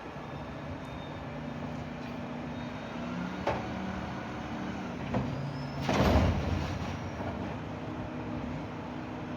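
Mack LR garbage truck's diesel engine idling steadily, with a sharp knock about three and a half seconds in and a loud, short burst of noise about six seconds in.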